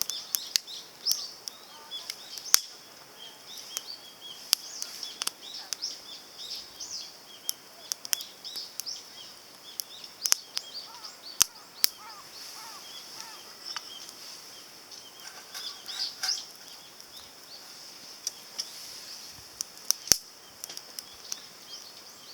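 Small wood fire of pine cones and twigs crackling in a compact titanium grill: irregular sharp pops and snaps over a steady high hiss.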